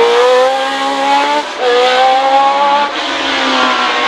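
Racing car engine at high revs, accelerating and climbing in pitch, with an upshift about a second and a half in and another near three seconds in.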